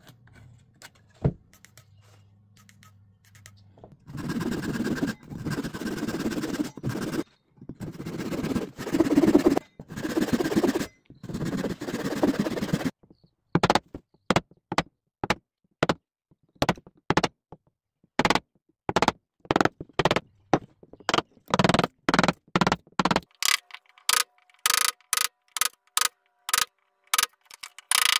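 Hand woodworking on a joint: several seconds of long scraping strokes on wood, then a long run of short, sharp knocks about once or twice a second that come faster near the end.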